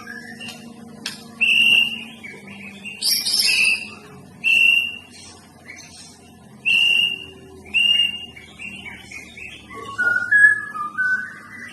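White-rumped shama (murai batu) singing loud, clear whistled notes in about six short separate phrases, closing with a quick run of lower stepped notes near the end.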